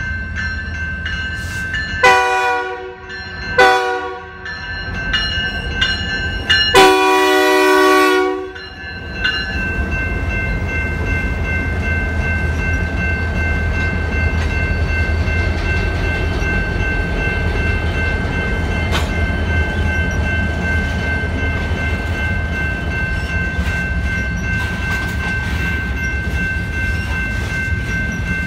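A BNSF freight train at a grade crossing. The locomotive horn sounds three blasts in the first nine seconds, the last the longest, over the steady ringing of the crossing warning bell. Then the diesel locomotives and covered hopper cars run past with a steady rumble while the bell keeps ringing.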